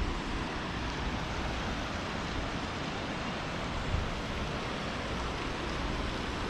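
Steady rushing of a fast mountain river and its small waterfalls, with a brief low bump about four seconds in.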